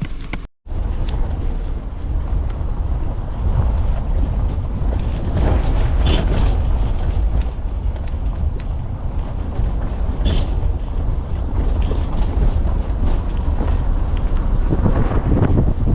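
Wind buffeting the microphone: a steady, heavy low rumble with a hiss above it. It cuts out completely for a moment about half a second in.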